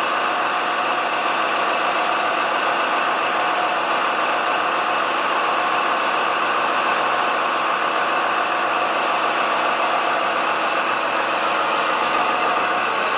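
Radio-controlled construction model running, a steady mechanical whir that holds even throughout.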